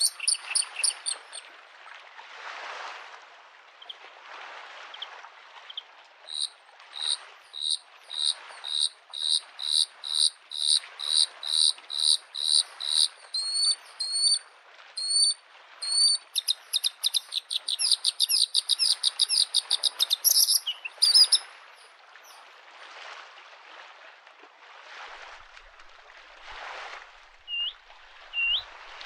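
Bluethroat singing: long runs of quick repeated high notes, with a few short upswept notes near the end. Under it, small lake waves lap at the shore in a soft wash that swells and fades every second or two.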